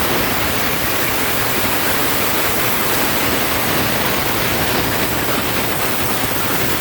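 Plasma torch of a mini CNC plasma cutter running, a steady loud hiss of the cutting arc and air stream.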